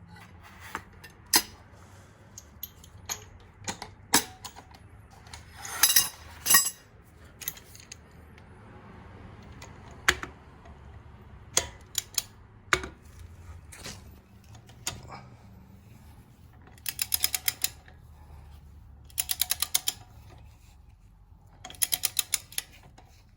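Torque wrench and socket tightening an extended-thread lug nut on a wheel stud: scattered sharp metal clinks and knocks, then three short runs of rapid ratchet clicking in the last several seconds.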